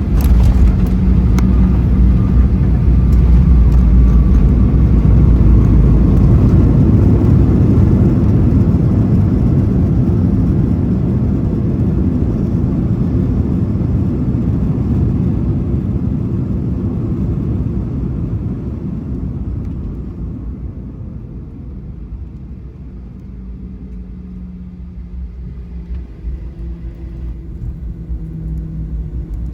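Boeing 737 cabin noise during the landing rollout: a loud low rumble that swells over the first few seconds, then dies away steadily as the jet slows to taxi speed, leaving a quieter engine hum with a steady tone.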